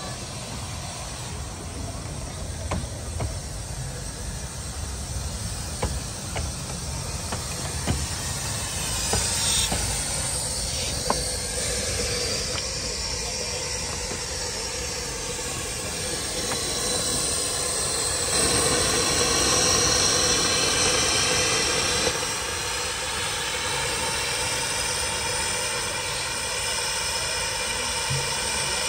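A 15-inch gauge miniature railway train running, with a steady rushing hiss and occasional sharp clicks. It grows louder about two-thirds of the way through, then eases off.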